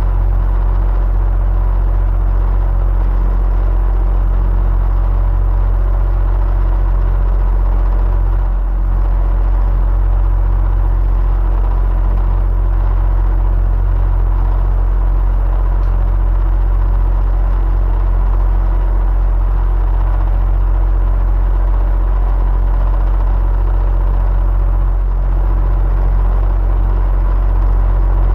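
Electric fan running steadily: a constant low hum and airy rush of air with faint steady tones, no change in speed.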